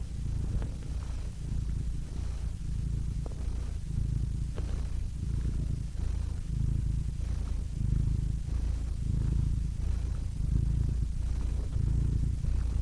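Domestic cat purring, a steady low rumble that swells and eases with each breath, with a few faint clicks.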